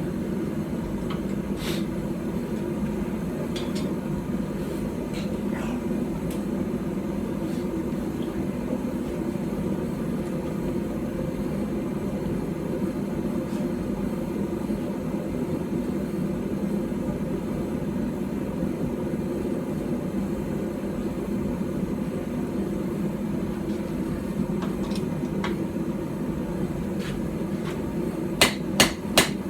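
The forge runs with a steady rushing noise while the steel heats. Near the end, a small hand-forged hammer starts striking hot steel on a stump anvil, about two blows a second.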